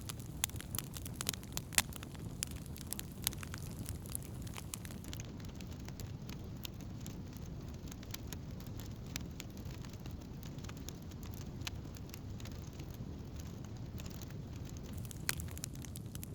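Wood campfire burning: a steady low rush of flame under sharp crackles and pops, thick at first, thinning out in the middle and picking up again near the end.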